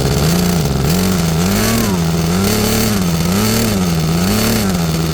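Nitro glow engine of a model airplane running fast, its pitch rising and falling regularly about once a second, five times, then holding steady near the end.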